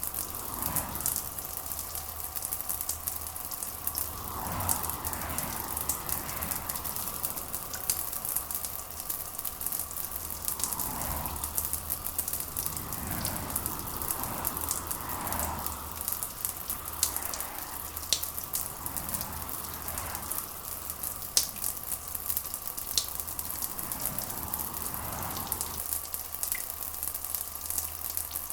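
Steady rain with a dense crackling patter of drops, and soft swells that rise and fall every few seconds over a faint steady hum.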